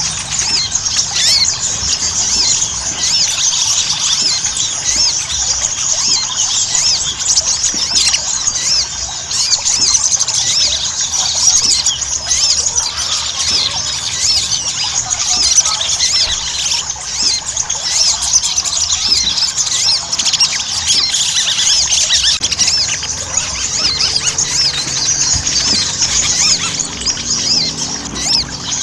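Sogon sunbird (sogok ontong) singing: a continuous, fast stream of high-pitched twittering chirps and short squeaky trills.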